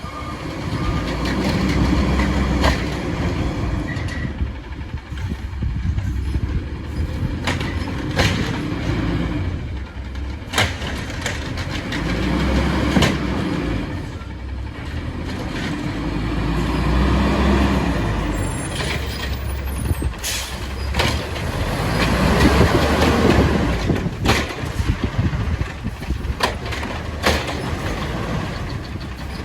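Refuse truck's diesel engine running and revving up in repeated swells, with scattered sharp knocks and clanks.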